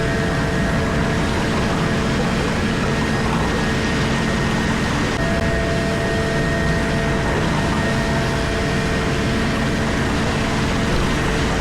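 Komatsu PC4000 mining excavator running under work, heard from inside its cab: a loud, steady machine drone with a few faint steady whining tones over it.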